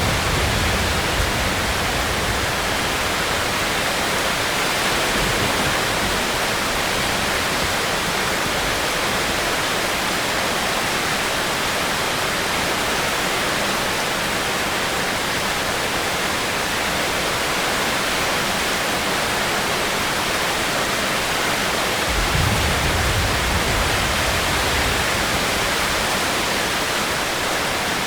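Steady heavy rain. A low rumble rises briefly at the start and again a few seconds before the end.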